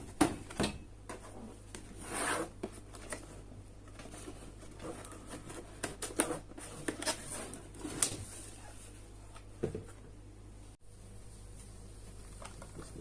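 Cardboard and plastic packaging of a boxed RC helicopter being opened and handled: scattered clicks and taps, with a longer rustling scrape about two seconds in.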